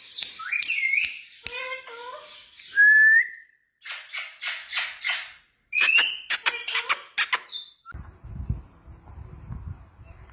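Indian ringneck parrot whistling and chattering in short bursts, with one clear rising whistle about three seconds in and harsh, rapid squawky chatter after it. The bird falls silent near the end, leaving only a low background hum.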